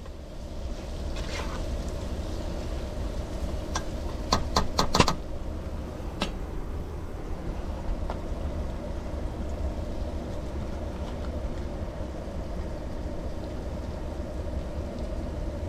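Cooking on a stove in a confined cab: a steady low rumble runs throughout. A quick run of sharp metal clicks and knocks, such as a spoon against the pan, comes about four to five seconds in, and single clicks follow a little later.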